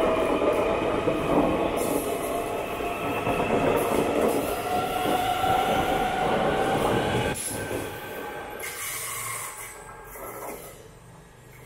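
SJ X55 electric multiple unit departing and running away over the points, wheels squealing in steady, wavering tones over the rumble of the train, fading out as it recedes over the last few seconds.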